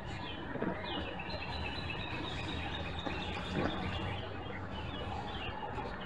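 Small songbirds chirping and calling, including a thin high call drawn out over a few seconds, over a steady background hiss and low hum.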